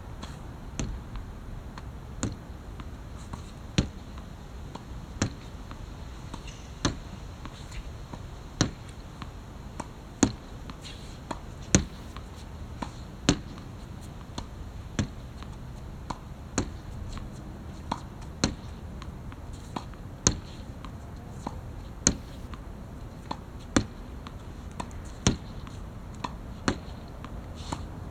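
Badminton racket striking shuttlecocks one after another, a sharp crack about every second and a half over a steady low background rumble.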